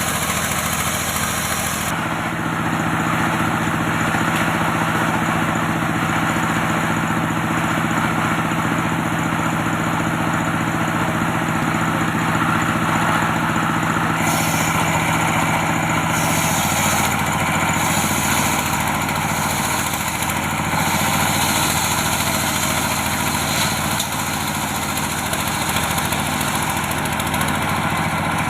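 Antique engine-driven circular saw running steadily while sawing teak. Its tone changes about two seconds in and again around the middle.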